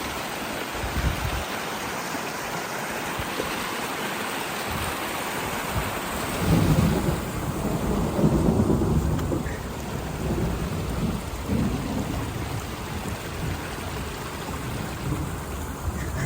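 Steady rain during a thunderstorm, with a roll of thunder rumbling low for a few seconds starting about six seconds in.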